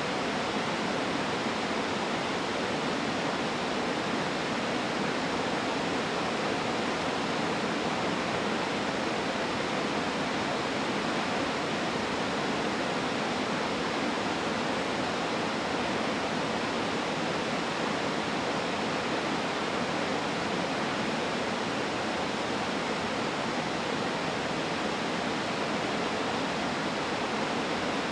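Waterfall pouring, a steady, unchanging rush of falling water.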